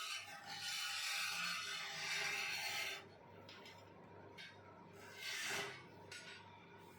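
Wood-turning lathe cutting wood: a turning tool scraping and rasping against the spinning workpiece over a steady motor hum, heavy for about three seconds, then lighter, with one more short cut a little past the middle.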